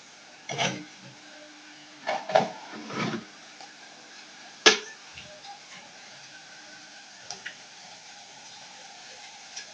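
A cooking utensil knocking and scraping against a pot as ugali is being taken out: a few separate knocks in the first three seconds, one sharp knock near the middle, then only a couple of faint ticks.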